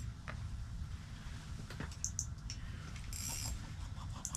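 Scattered small mechanical clicks and rattles, with a few brief high hissing bursts, typical of fishing reels and tackle being handled, over a steady low rumble.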